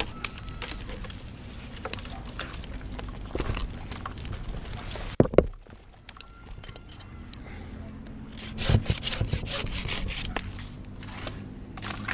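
Scraping and rubbing against wood, with scattered sharp knocks and clicks. Two strong knocks come about five seconds in, and a quick run of rattling clicks around nine seconds.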